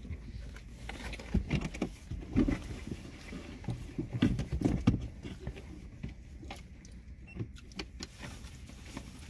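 Close-up chewing of a fried chicken sandwich, with scattered mouth clicks and small handling knocks, loudest in the first half, over a steady low rumble.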